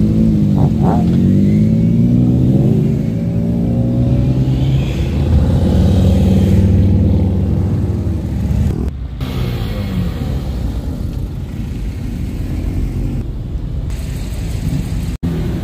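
Cars driving past one after another at low speed, engines revving briefly, each exhaust note rising and falling as the car goes by.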